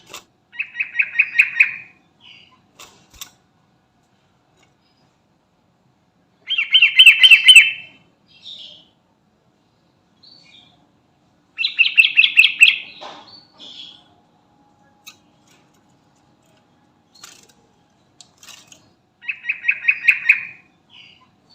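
Sooty-headed bulbul singing: four short phrases, each a quick run of repeated notes, a few seconds apart.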